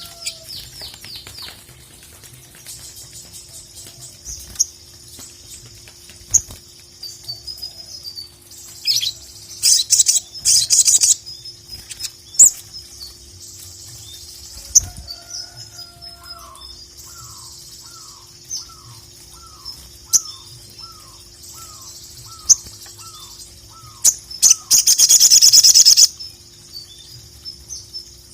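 Sogok ontong (sogon) sunbird singing: high, rapid chirps and twittering trills, with two loud, dense buzzing trills about ten seconds in and again near twenty-five seconds. In the middle a lower voice repeats short falling notes about twice a second, and a faint steady hum sits underneath.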